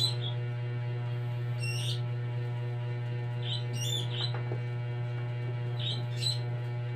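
Short high bird chirps, single or in quick pairs, every couple of seconds over a steady low hum.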